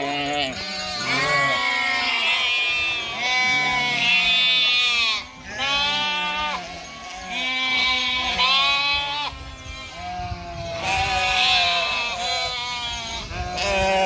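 A flock of sheep bleating, many animals calling over one another in wavering cries of about a second each, with no break.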